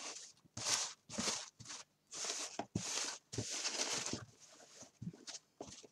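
Folded paper pages of a book rustling as the book is handled and turned over, a run of short dry rustles with a few light knocks.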